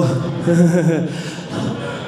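A man's voice, drawn out and held on a pitch in two long stretches, strained and emotional.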